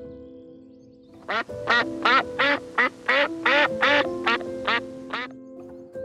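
Duck quacking: a rapid series of about a dozen loud quacks, starting about a second in and stopping about five seconds in.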